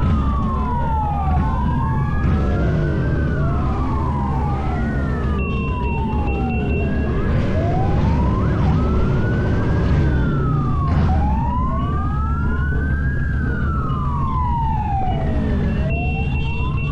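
Several emergency-vehicle sirens wailing at once, each rising and falling in pitch every second or two and overlapping the others, over a steady low engine rumble.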